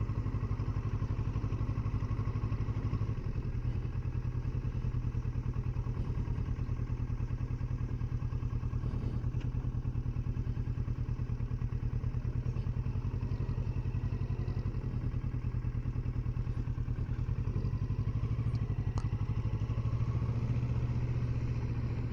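Kawasaki Versys 650's parallel-twin engine running steadily at low revs while the motorcycle rolls along at a crawl.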